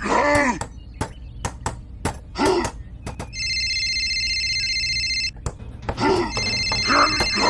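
An electronic ringing tone of several steady pitches sounds for about two seconds in the middle, between short wordless vocal calls at the start, about two and a half seconds in, and near the end. Sharp clicks come throughout over a low steady hum.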